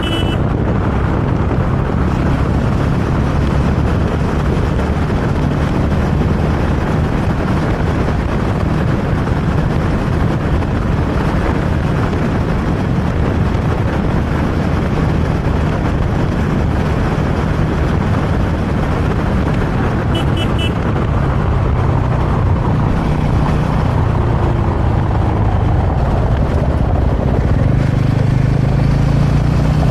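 Motorcycle riding at speed, heard from the rider's camera: a steady rush of wind over the microphone with the engine running underneath, its note a little stronger near the end. A brief high beeping sounds about twenty seconds in.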